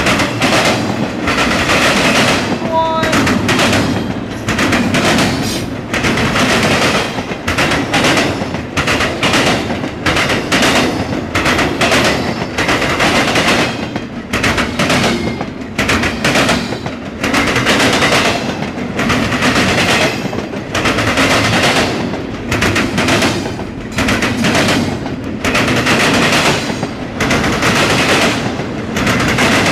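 Norfolk Southern intermodal freight train rolling past at close range: loud, continuous rumble with dense, irregular clattering of car wheels on the rails.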